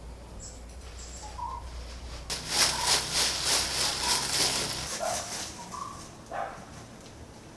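Short bird calls repeating about once a second over a faint low hum. A louder stretch of crackling, rustling noise runs for about three seconds in the middle.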